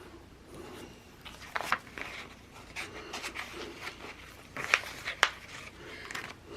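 Sticker sheets and planner pages being handled: soft paper rustling with several sharp clicks and snaps, as stickers are peeled off and repositioned.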